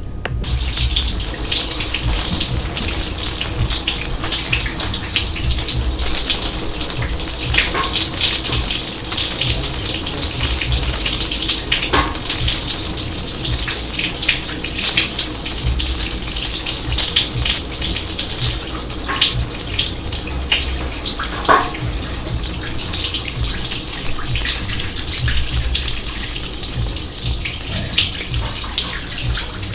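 Water running hard from a faucet into a kitchen sink, a steady splashing rush that starts abruptly just after the beginning.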